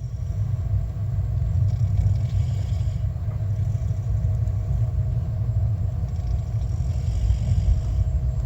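Steady low rumble of a moving passenger train heard from inside the carriage, with a faint steady hum over it.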